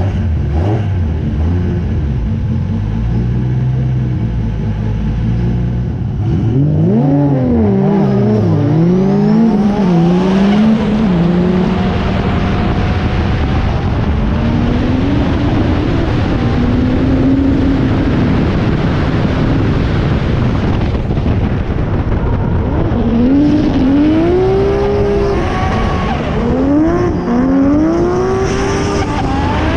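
Drift car's engine heard from inside the cabin: idling for the first few seconds, then from about six seconds in revving hard and climbing and dropping through the gears, and near the end rising in quick repeated surges.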